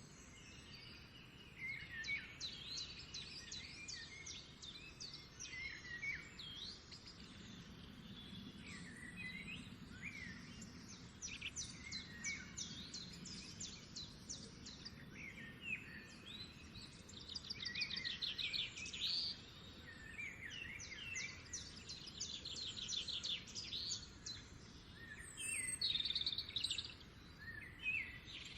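Several songbirds singing at once: overlapping chirps and whistled notes, with fast trills about two-thirds of the way in and again shortly after, over a faint low background hum.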